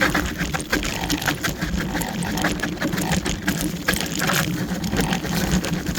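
Kaabo Wolf Warrior electric scooter's dual hub motors droning steadily under heavy load on a steep climb, with gusty rushing noise over the top.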